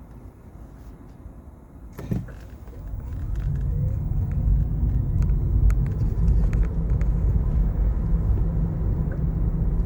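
Nissan Leaf pulling away: a single sharp clunk about two seconds in, the kind of knock the owner traces to the driveshaft on acceleration, then steady low road rumble building as the car gathers speed, with a faint rising whine and a few light ticks.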